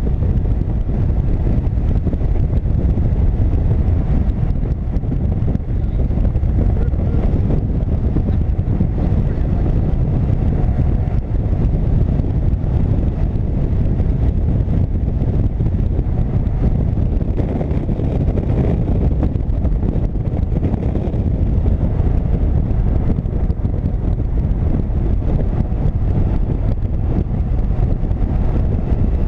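A motorcycle on the move: steady engine and road noise under heavy wind rushing over the microphone, with no change in pace.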